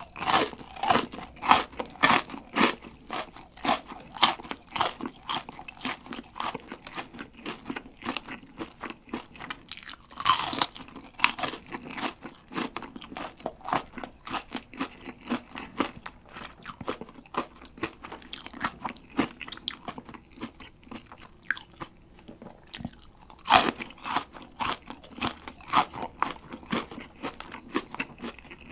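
Close-miked crunching and chewing of a crispy deep-fried breaded shrimp: a steady crackle of chewing, with two louder crunching bites, one about a third of the way in and a stronger one near the end.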